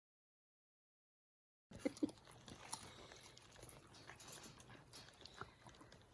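Silence, then two short, loud yips from a Shiba Inu puppy about two seconds in, followed by faint chewing and small clicking sounds.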